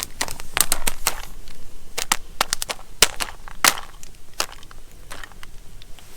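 Popcorn popping in a foil-topped stovetop popcorn pan over a campfire: irregular sharp pops, thinning out near the end. The foil has split open, so kernels are popping out of the pan.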